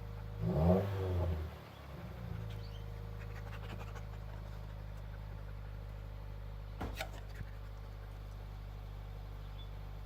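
2015 Subaru WRX's turbocharged flat-four exhaust, running through a 2018 STI mid-pipe with its resonator and 3-inch muffler deletes: a brief rev about half a second in, then a steady low idle. A single sharp click comes about seven seconds in.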